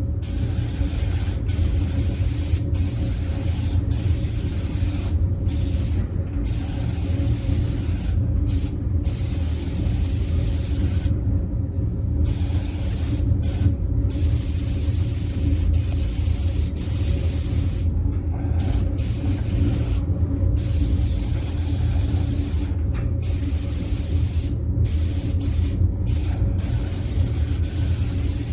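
Air spray gun spraying two-component primer-surfacer along edges and gaps in short passes. Its hiss breaks off briefly about a dozen times as the trigger is let go between passes, over a steady low hum.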